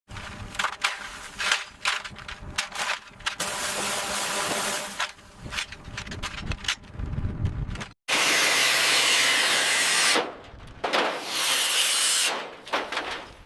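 Workshop tool sounds: a run of knocks and clanks mixed with power-tool noise. After an abrupt cut come two long, loud bursts of hissing power-tool noise, and then it fades out.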